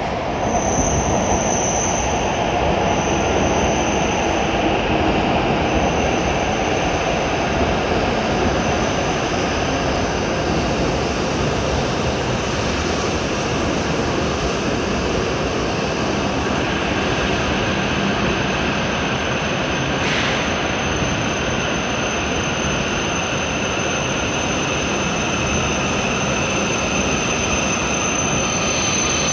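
W7 series Hokuriku Shinkansen trainset rolling in alongside the platform and slowing, a steady rumble of the cars going past. A thin high squeal sounds in the first few seconds, comes back about two-thirds through, and grows toward the end.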